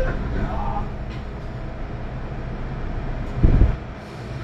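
MTR Tseung Kwan O line M-Train rumbling steadily, with a brief low thump about three and a half seconds in.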